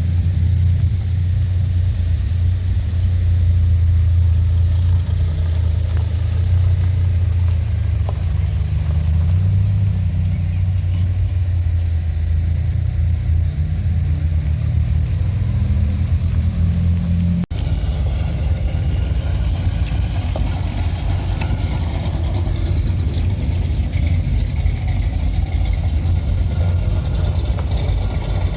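Car engine and road noise while driving: a steady low rumble that rises slightly in pitch, breaking off sharply about 17 seconds in and resuming with a somewhat different sound.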